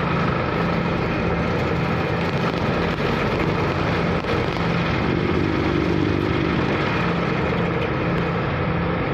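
Ferry's diesel engine running steadily under a dense, even rush of wind and waves.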